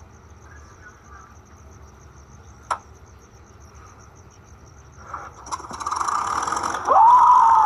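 Crickets chirping steadily, with two sharp clicks, one at the start and one about three seconds in. From about five seconds in, a much louder mechanical noise builds and drowns the crickets out, with a wavering tone near the end.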